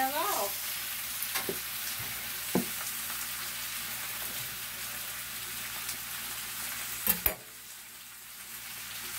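Cabbage and kielbasa frying in oil in a skillet, a steady sizzle with a few light clicks. Two sharp knocks come about seven seconds in, after which the sizzle is quieter.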